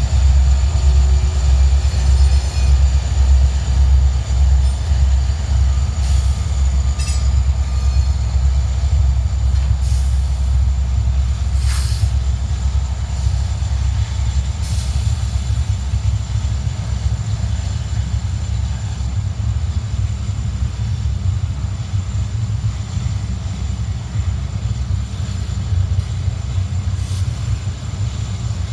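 Double-stack container freight cars rolling past: a steady, heavy low rumble of steel wheels on rail, with a few sharp clicks and clanks from the wheels and cars, the sharpest about twelve seconds in.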